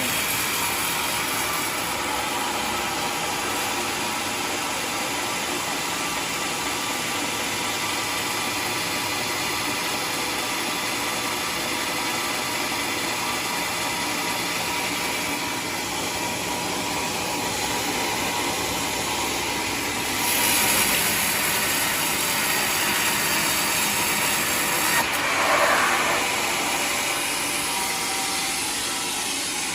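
Homemade sawmill running steadily as it saws a waru log into planks, getting louder and harsher about two-thirds of the way through, with a brief surge near the end.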